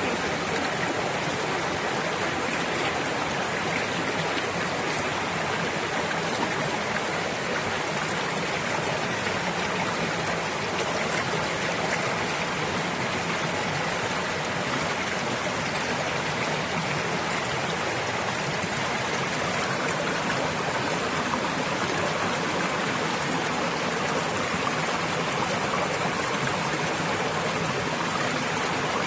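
Stream water running, a steady, even rush that does not change.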